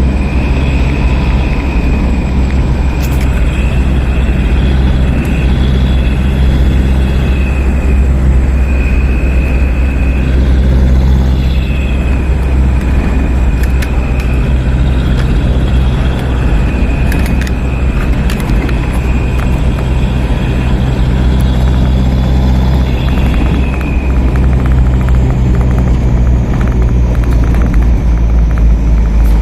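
Truck engines running at idle, a steady low rumble, with a higher whining tone that fades in and out.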